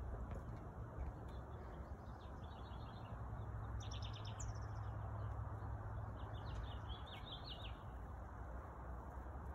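Small birds chirping in short runs of quick high notes, the clearest about four seconds in and again a few seconds later, over steady low outdoor background noise.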